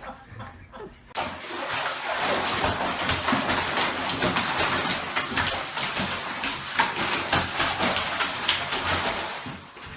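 Water splashing and rushing, a dense continuous noise full of small splashes. It starts about a second in and eases off near the end.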